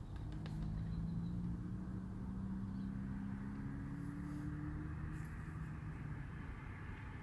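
Car engine running with a steady low drone whose pitch drifts slightly, over low road or engine rumble.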